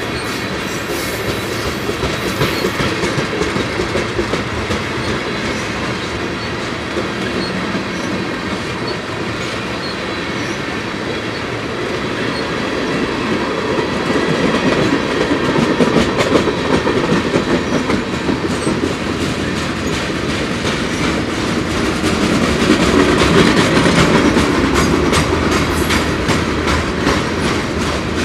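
A freight train's tank cars and boxcars rolling past: a steady rumble of steel wheels with clickety-clack over the rail joints, getting louder around the middle and again near the end.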